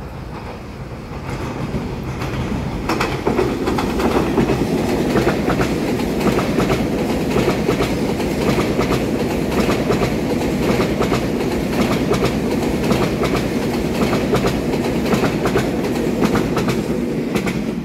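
A twelve-car EMU3000 electric multiple-unit express train passing by. A steady rumble builds over the first three seconds, with quick, uneven clicking of wheels over rail joints throughout.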